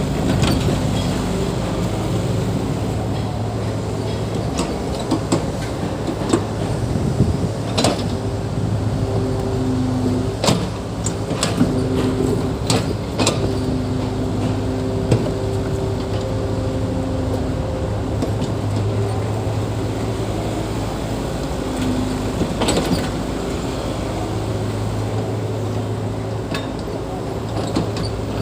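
Diesel engine of heavy earthmoving machinery running steadily, with intermittent pitched whines and several sharp metallic clanks.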